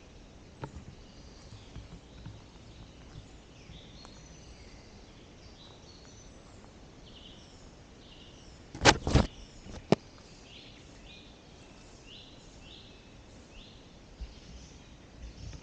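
Woodland birds singing, a scatter of short chirps and whistled notes against a quiet forest background. About nine seconds in come a few sharp cracks close together, and one more a second later.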